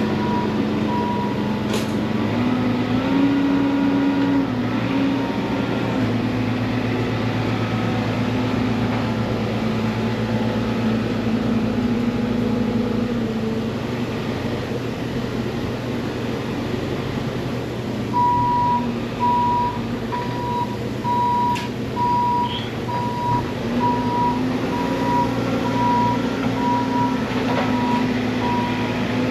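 Sawmill engine running steadily under changing load, its pitch stepping up and down at times. From about two-thirds of the way through, a steady train of high electronic beeps sounds alongside.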